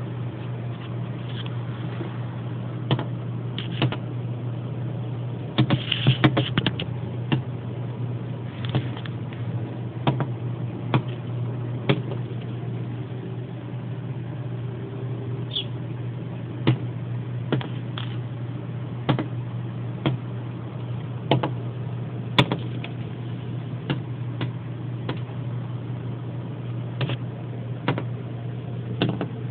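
A red bird pecking with its beak, giving sharp, irregular taps about every one to two seconds, with a quick flurry of taps about six seconds in, over a steady low hum.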